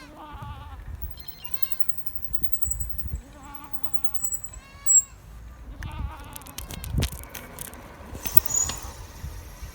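A goat bleating repeatedly, several short wavering bleats, with a few sharp knocks, the loudest about five seconds in.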